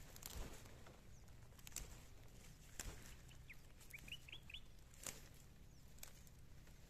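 Faint bird chirps: a quick run of short high notes about halfway through, over a low steady background, with a few sharp clicks scattered through.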